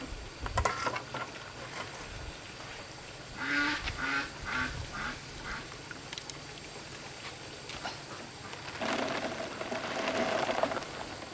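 A duck quacking: a run of about five quacks a few seconds in, each weaker than the last. Near the end comes about two seconds of noise.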